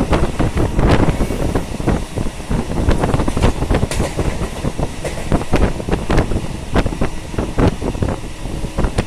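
Local passenger train running on the line: a loud low rumble of the carriage with many irregular clicks and rattles from wheels and fittings.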